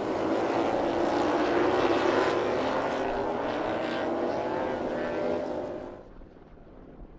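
MotoGP racing motorcycle engine running at high revs past the trackside microphone, its pitch drifting with the throttle. It drops away sharply about six seconds in, leaving a faint background.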